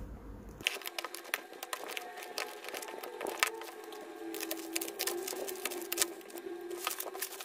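Packaging being handled and unwrapped: many sharp clicks and crinkles over faint sustained tones.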